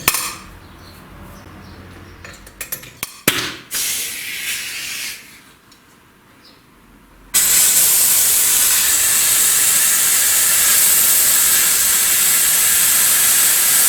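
Compressed air hissing steadily, loud and high-pitched, cutting in suddenly about halfway through; a shorter hiss and a few metal clinks come before it.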